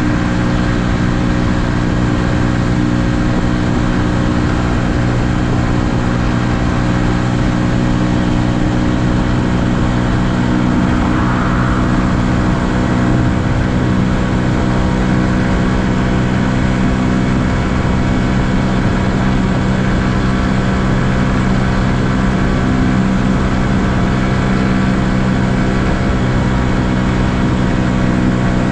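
2020 Honda Super Cub's small single-cylinder four-stroke engine running at a steady cruise, with wind and road noise on the microphone.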